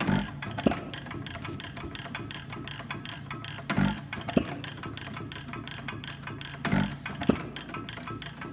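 Root and Vandervoort Easy Cooler single-cylinder hit-and-miss gas engine running, firing three times about three seconds apart and coasting with a steady ticking between firings. Each firing is followed about half a second later by a sharp click.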